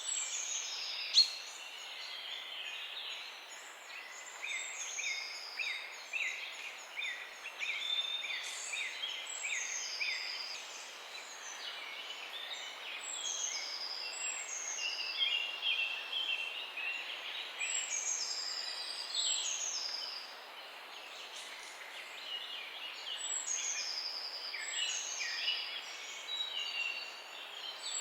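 Several songbirds chirping and singing at once, a dense chorus of short chirps and quick falling whistled notes. There is one brief sharp click about a second in.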